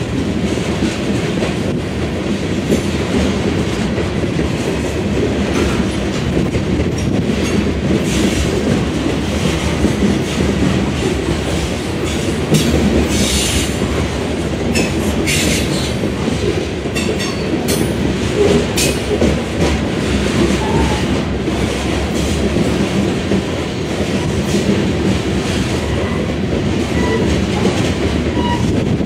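Covered hopper cars of a Kansas City Southern grain train rolling past: a steady rumble of steel wheels on rail with clickety-clack over the rail joints, and a few brief high-pitched bursts about halfway through.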